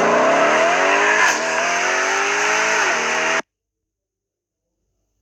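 Car engine accelerating hard, its pitch rising, dropping once about a second in as if shifting gear, then rising again. The sound cuts off abruptly partway through.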